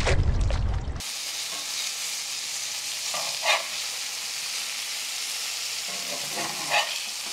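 Wind buffeting the microphone for about the first second, then breaded catfish fillets sizzling in oil in a cast-iron skillet. A metal spatula scrapes the pan twice.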